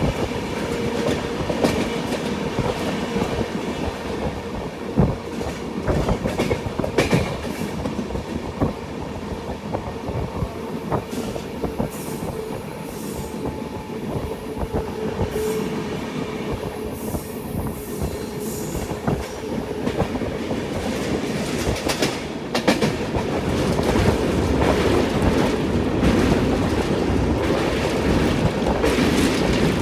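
Sampoorna Kranti Express running along the track, heard from inside a coach: a steady rumble of wheels on rails with scattered clicks and knocks, growing louder about three quarters of the way in.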